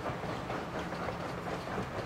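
Reading Blue Mountain & Northern passenger coaches rolling past, their wheels on the rails making a steady rumble with occasional light clicks.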